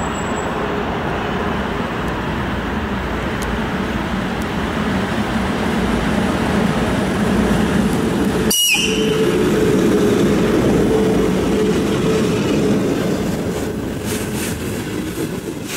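VL10 eight-axle DC electric locomotive hauling a container freight train passing close by: a steady rumble of wheels and running gear that grows louder as the locomotive goes past, with a hum joining in. The rumble continues as the loaded container flat wagons roll by.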